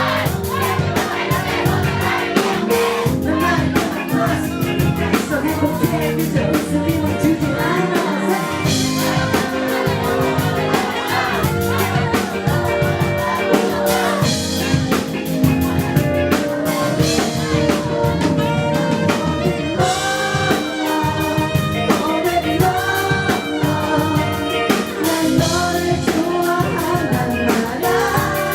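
Live band music with a singer over drums and instruments.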